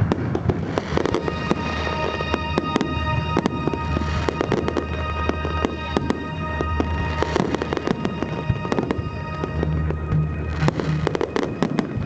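Fireworks display: a dense, continuous run of sharp bangs and crackling bursts, with music playing underneath.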